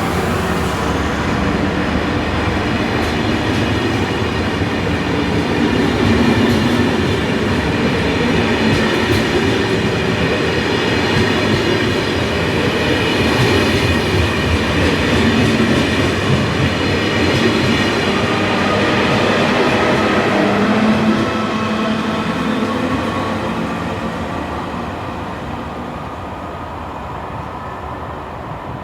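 TGV high-speed train pulling out of the station: a steady whine from the traction motors over rolling wheel noise, which fades away over the last several seconds.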